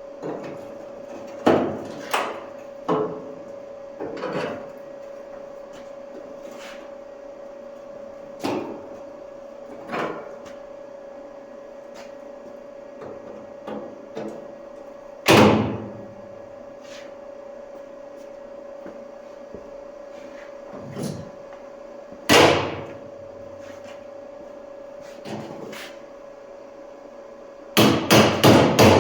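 Hammer blows on the steel bottom of a car door, knocking off leftover metal after the rusted flange has been cut loose. The blows are irregular and widely spaced, two of them much harder, then a quick run of strikes near the end.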